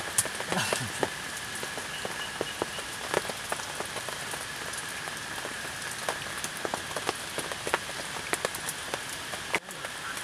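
Rain pattering and dripping onto a tarp shelter, with many separate sharp drop hits over a steady hiss. A faint steady high tone runs underneath.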